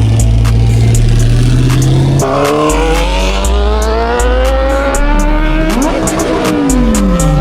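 Car engine accelerating, its pitch climbing steadily for several seconds, over music with a heavy bass and a steady hi-hat beat.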